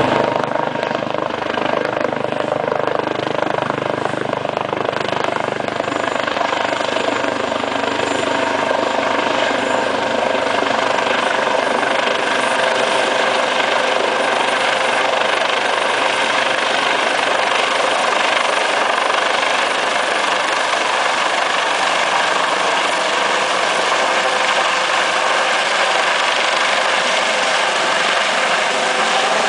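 Helicopter running steadily, its rotor noise carrying several steady whining tones; some of the deeper tones fade after about six seconds.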